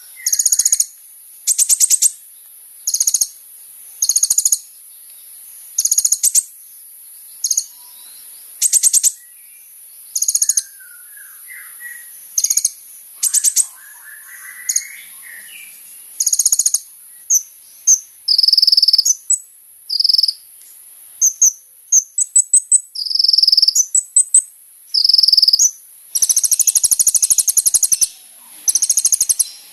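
Kolibri ninja sunbird singing: short, very high, rapidly ticking trills repeated every second or two, coming faster and closer together near the end, over a steady high hiss.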